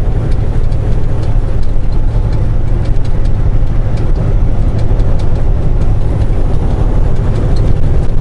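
Steady low engine drone and road rumble heard inside a moving semi truck's cab.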